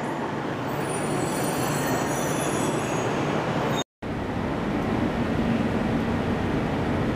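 Tohoku Shinkansen E2 series Yamabiko train running with a steady rumble and hum, with thin high whines in the first half. The sound cuts out for an instant about four seconds in, then goes on as a steady hum.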